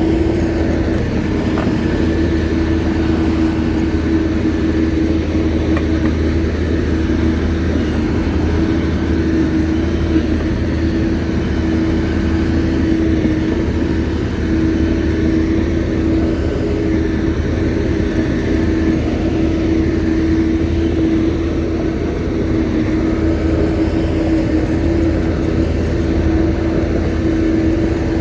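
Shantui bulldozer's diesel engine running steadily, a continuous low rumble with a constant mid-pitched engine tone.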